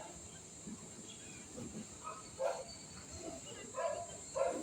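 Steady high-pitched chorus of crickets or cicadas, with a few short, faint sounds in the background, the loudest near the end.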